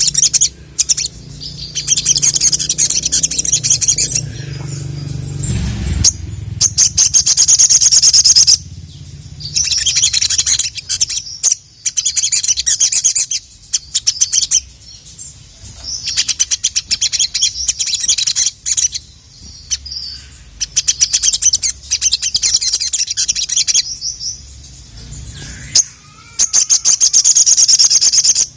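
Ruby-cheeked sunbird (sogon) singing a full, varied song: bouts of rapid, high-pitched chattering trills, each a couple of seconds long, broken by short pauses. A low rumble runs under the first six seconds.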